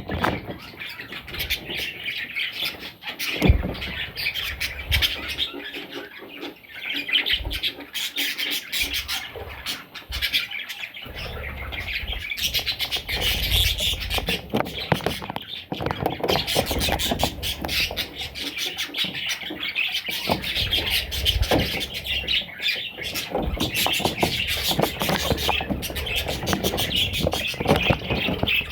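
Budgerigars chirping and chattering continuously, a dense mix of quick chirps and squawks, with a few low thumps.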